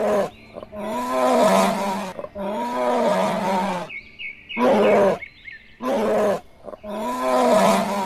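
A large wild animal roaring, about six calls in a row, the second and third long and drawn out, the others shorter, with brief gaps between.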